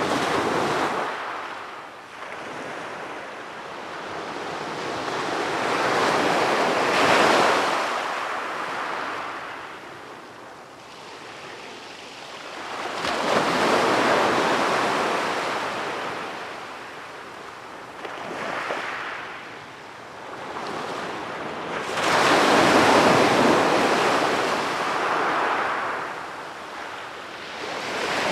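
Sea waves breaking and washing onto a beach, the surf swelling and falling back in slow surges every several seconds.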